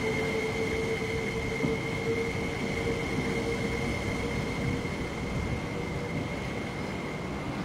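MTR SP-1900 electric multiple unit rolling slowly past and away, with a steady high-pitched whine held throughout and a lower steady tone that fades out a little past the middle; the overall sound eases off gradually as the train leaves.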